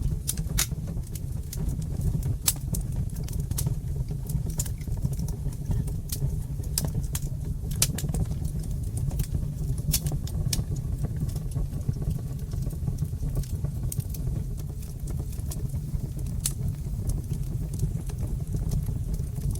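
Fire in a fireplace crackling, with frequent irregular sharp pops and snaps over a steady low rumble of burning.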